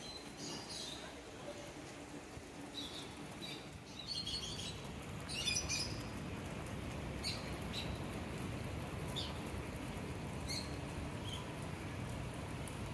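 Birds chirping in short, scattered calls over a low, steady background rumble that grows a little louder about four seconds in.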